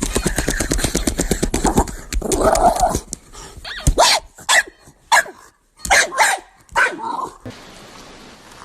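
A dog growling and barking: a rapid rattling run, then a string of separate short barks that stop suddenly near the end.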